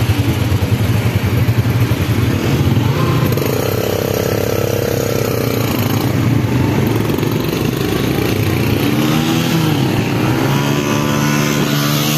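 Motorcycle engine running steadily on the road, with a constant rushing noise over it, the sound of riding in traffic.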